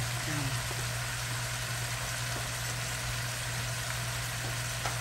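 Sliced squash, zucchini, peppers and potatoes frying in oil in a wok: a steady sizzle over a steady low hum, with a faint tick or two.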